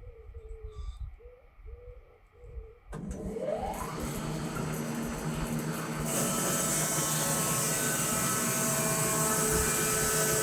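A pigeon or dove coos repeatedly. About three seconds in, the electric motor of a Woodland Mills HM126 bandsaw mill starts, with a whine rising as it spins up. About three seconds later the running sound gets louder and hissier and stays steady.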